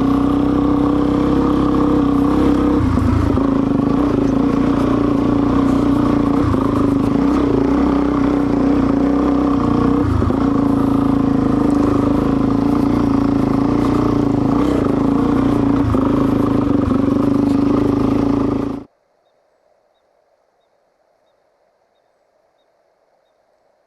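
Suzuki DR-Z400's single-cylinder four-stroke engine running at a steady speed under way, cutting off suddenly about nineteen seconds in to near silence.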